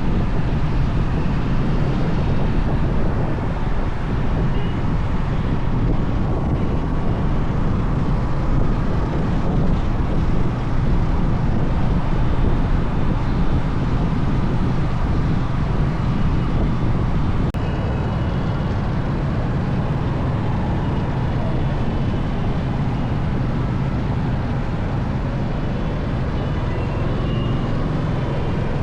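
Motorcycle riding along with steady engine and road noise.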